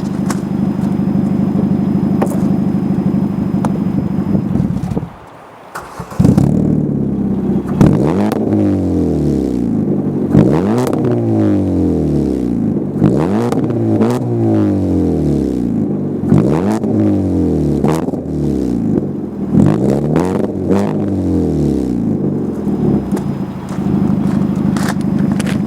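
Ford Fiesta engine and exhaust idling, then revved in repeated quick blips, about seven, each rising and falling back to idle, before settling to a steady idle again near the end. The sound drops away briefly about five seconds in, just before the revving starts.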